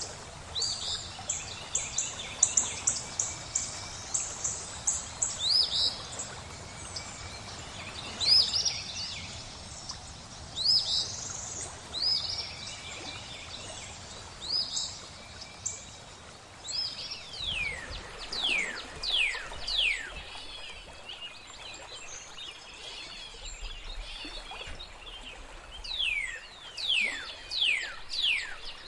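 Birds singing and chirping over a steady flowing-water ambience. Quick runs of high chirps fill the first few seconds, then scattered short calls follow. Clusters of steeply falling whistles come about two-thirds of the way through and again near the end.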